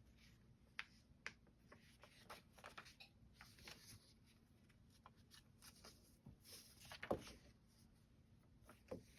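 Faint rustling and scattered light clicks of fabric and a paper piecing pattern being handled, with a slightly louder tap about seven seconds in.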